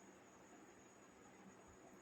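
Near silence: faint room tone with steady hiss.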